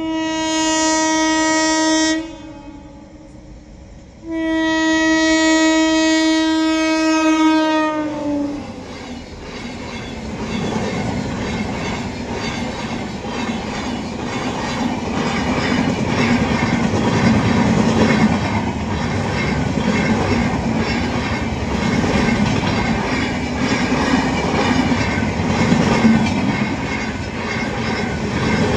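A train horn sounds twice, a short blast and then a longer one whose pitch drops as the locomotive passes. Then an Indian Railways train of LHB coaches runs past close by, with a steady rumble and the rhythmic clickety-clack of the wheels over the rail joints.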